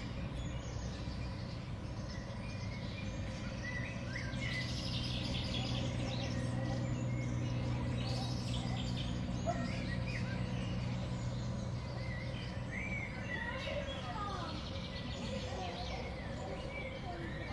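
Small songbirds chirping and calling, many short high notes scattered throughout, over a steady low hum.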